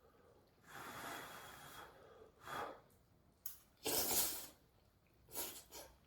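A person eating hot noodles, with a series of short, airy slurps and breaths. The loudest comes about four seconds in.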